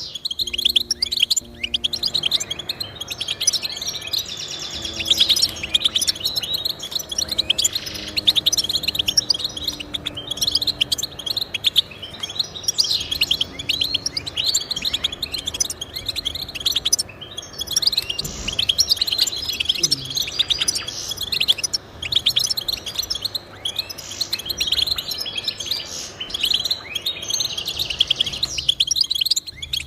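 Goldfinch singing: a fast, unbroken twittering of high chirps and trills, with a short break about a second in and another near the end.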